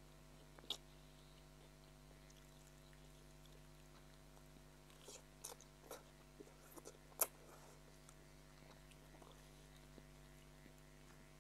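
A person eating chow mein noodles, mostly quiet, with a few sharp mouth clicks of chewing. One comes about a second in, then a cluster between five and seven seconds in, the loudest near seven seconds. A faint steady hum runs underneath.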